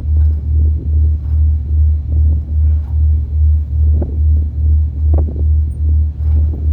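Ferry engine heard on board: a deep, steady rumble that pulses about two and a half times a second, with a couple of faint knocks.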